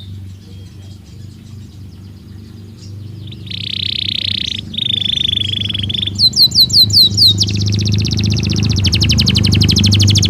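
Belgian canary singing: after a quiet opening, two held buzzing notes, then a quick run of downward-sweeping notes and a fast, even trill that carries on to the end. A low steady hum lies underneath.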